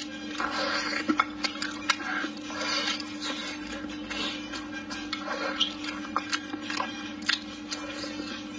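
Close-up mouth sounds of eating a braised pork trotter: wet chewing and sucking on the skin, with many sharp lip smacks and clicks, over a steady low hum.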